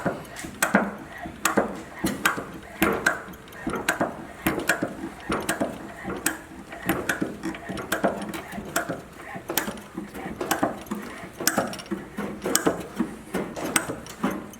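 Hand-operated hydraulic hose crimper being tightened down stroke after stroke, with sharp clicks about twice a second as it squeezes an A/C hose fitting onto the rubber hose.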